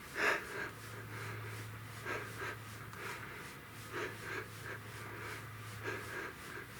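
A man breathing hard in short repeated breaths while pedalling an exercise bike uphill, the first breath the loudest, over a steady low hum that stops about six seconds in.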